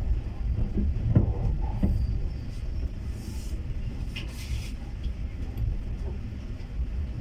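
Steady low rumble of a passenger train carriage running on the rails, heard from inside the carriage. A few knocks come in the first two seconds, and short hissing sounds come about three and four seconds in.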